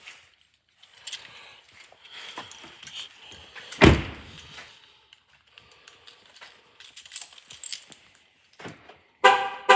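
Keys jangling and small handling clicks, a loud thump about four seconds in, then a short honk of the 2015 GMC Sierra 3500HD pickup's horn near the end.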